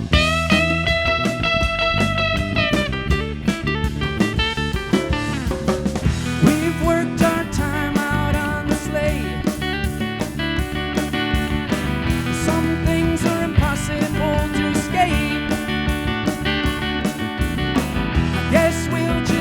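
A band playing live: guitar with drums keeping a steady beat, opening with a long held note.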